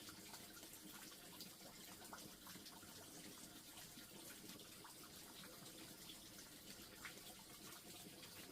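Faint, steady sound of water, with scattered small clicks.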